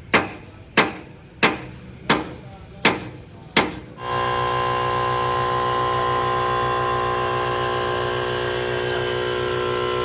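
Six hammer blows on metal, each ringing briefly, at a steady pace of about one every 0.7 seconds. About four seconds in they stop and a loud, steady mechanical drone starts, with a low hum and several steady tones.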